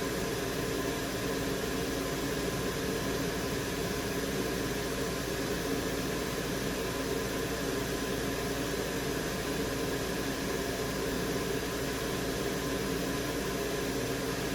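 Steady fan and airflow noise with a low hum from repair-bench equipment, even in level with no clicks or changes.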